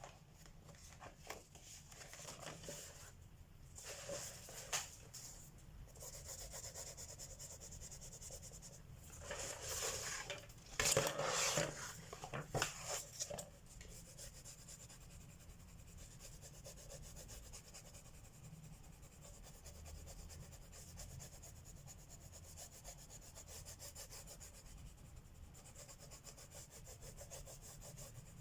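Colored pencil shading on paper: a faint, fast, steady scratching of short strokes. About nine seconds in there is a louder stretch of rubbing and scraping that lasts a few seconds.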